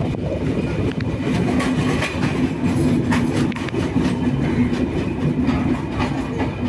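Passenger train coaches running along a station platform, heard from the coach doorway: a steady low rumble with irregular clicks of the wheels over rail joints and points as the train pulls into the station.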